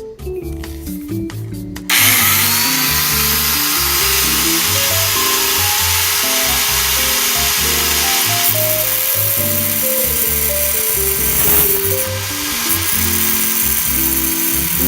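Background music with a stepping melody and bass. About two seconds in, an electric power tool starts over it with a loud, harsh hiss. Its motor whine rises briefly, then holds a steady pitch.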